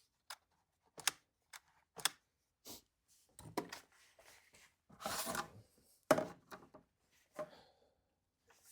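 A series of sharp clicks and knocks of hard plastic and metal as a chainsaw and its newly fitted recoil starter are handled, with a longer scraping rustle about five seconds in.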